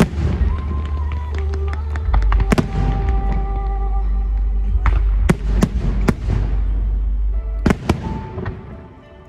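Aerial fireworks going off: repeated sharp bangs and crackles over a constant low rumble, easing off near the end, with music playing along.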